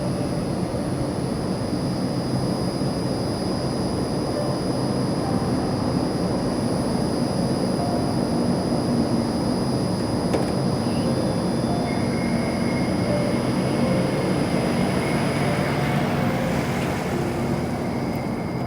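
Steady rumbling noise of a vehicle in motion, even in level throughout.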